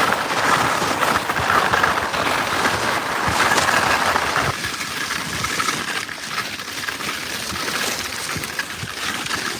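Skis sliding over snow, an even rushing noise with irregular small crunches and clicks, growing quieter about four and a half seconds in.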